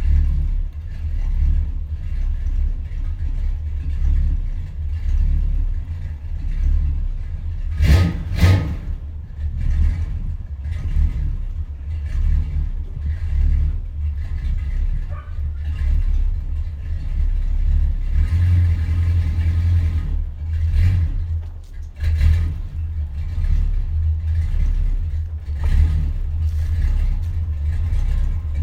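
1972 Chrysler New Yorker's 440 V8 running after a cold start, its dual exhaust with H-pipe and Flowmaster 40-style mufflers giving a deep, uneven low note. A brief louder burst of noise comes about eight seconds in.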